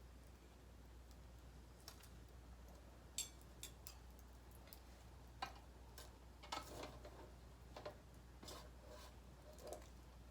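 Small wood fire in a solo fire stand crackling faintly: a scattered handful of sharp pops and ticks at irregular intervals over a low steady hum.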